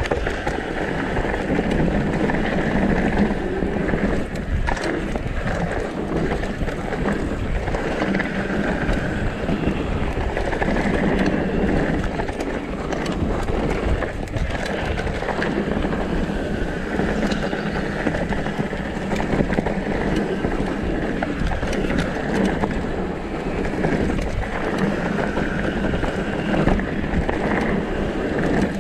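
Wind noise on the microphone over the steady tyre noise and rattle of a downhill mountain bike riding down a rough dirt trail, with frequent small knocks from the bike.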